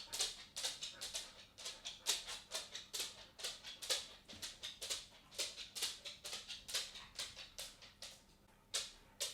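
A dog's claws clicking and tapping on a wooden floor as it walks, several irregular taps a second, with a short pause near the end.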